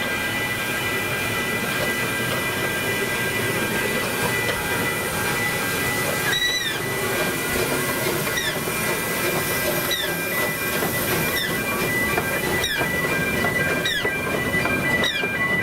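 Narrow-gauge steam train running, with a steady high metallic squeal over its rumble and hiss. From about six seconds in, short falling squeals come every second or so.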